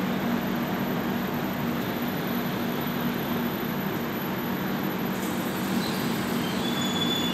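A passenger train's coaches roll slowly along the platform as it arrives, with a steady rumble of wheels on the rails and a low hum. A faint, thin, high brake squeal starts near the end as the train slows to a stop.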